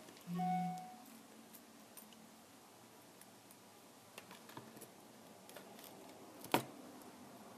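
Scattered small clicks and light taps of tools and plastic parts being handled during a tablet screen repair, with one sharper click near the end. There is also a brief low hum about half a second in.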